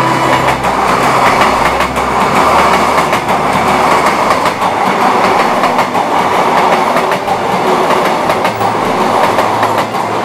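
Taiwan Railways electric multiple-unit commuter train passing close by: a loud, steady rumble of wheels on the rails with many quick clicks from the rail joints.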